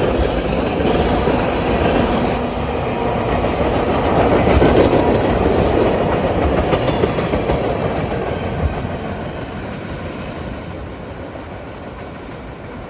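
Norfolk Southern freight train's cars rolling past, the wheels clattering over the rails, the sound fading away over the last few seconds.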